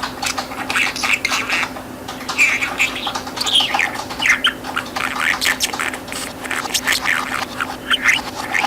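Budgerigar chattering: a continuous fast run of warbles, chirps, short whistles and gurgling squawks, over a steady low hum.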